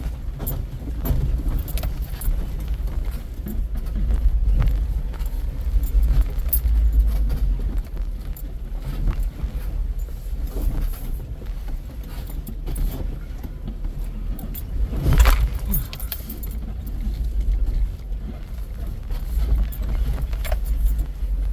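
Jeep driving over a rocky off-road trail, heard from inside: a low engine and drivetrain rumble with constant rattling and clinking, and one hard knock about 15 seconds in.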